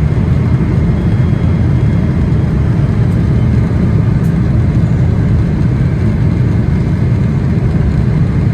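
Steady, heavy low rumble of a Boeing 777-300ER's engines and airflow heard inside the cabin, unchanging throughout.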